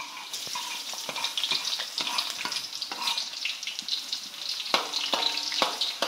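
Chopped food sizzling in hot oil in a wok, the sizzle strengthening just after it goes in. A spatula knocks and scrapes against the wok as the food is stirred.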